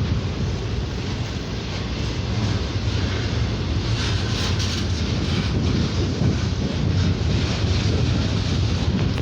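Freight train cars rolling past on the rails, a steady, continuous rolling noise that is strongest in the low end.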